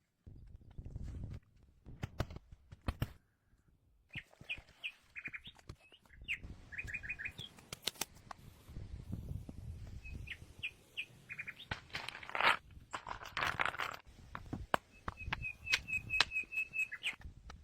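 Bird chirping in short runs of quick, high repeated notes, mixed with scattered sharp clicks and knocks and some low rumbling noise.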